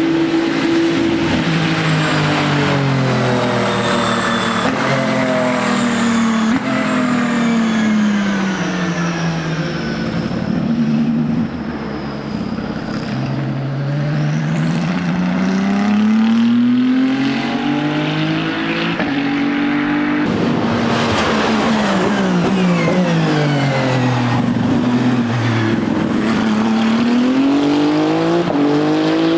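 Ferrari 499P hypercar's twin-turbo 120° V6 running at racing speed: the engine note drops in steps as the car brakes and downshifts, then climbs as it accelerates away. The same fall and rise comes again from about twenty seconds in.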